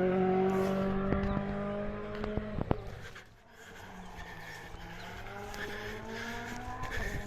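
Rally car engine running hard under load, its note rising slightly, then fading away about three seconds in; a quieter engine note climbs again after that, with a few sharp clicks.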